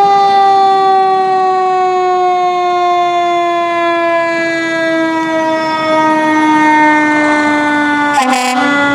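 Fire engine's siren sounding one long, slowly falling tone as it winds down, with a short burst of noise near the end before the tone carries on lower.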